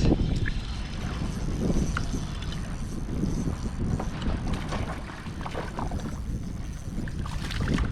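Wind buffeting the microphone on an open boat, an uneven low rumble, with a few faint clicks over it.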